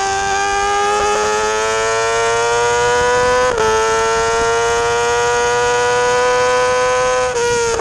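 Yamaha R6 sport bike's inline-four engine running at high revs, a loud high-pitched wail whose pitch climbs slowly. The note breaks briefly about three and a half seconds in as it changes gear, then holds high and wavers near the end.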